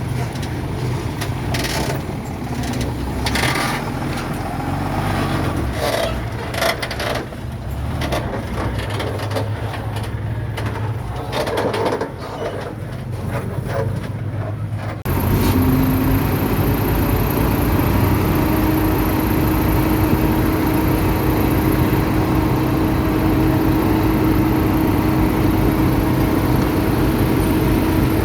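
Bulldozer's diesel engine running under load, with scraping and clanking as it pushes dirt. About halfway through, the sound cuts abruptly to a louder, steadier engine with a held whine.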